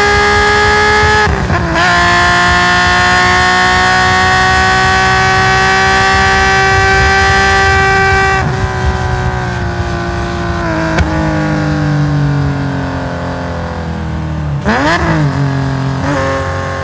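Nissan S20 twin-cam straight-six in a Hakosuka Skyline GT-R heard onboard at racing speed, running at high revs with a brief drop in pitch a little over a second in, as on an upshift. About eight seconds in the engine note falls away in steps, with a quick rev blip on a downshift near the end.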